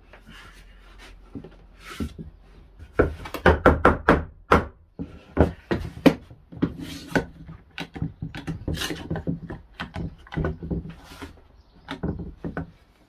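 Pieces of timber being handled and worked by hand: irregular wooden knocks and scraping strokes, with a quick run of strokes about three seconds in.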